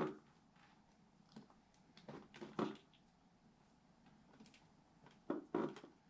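A few short clicks and knocks of computer parts being handled and fitted, in three small clusters: at the start, about two seconds in, and near the end.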